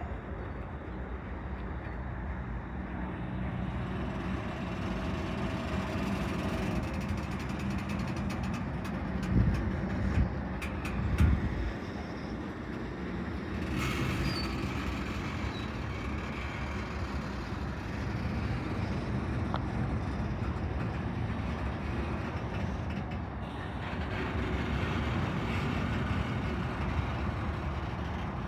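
Long CSX freight train starting to roll slowly: diesel locomotive engines running under a steady noise of moving railcars, with a few louder knocks about nine and eleven seconds in.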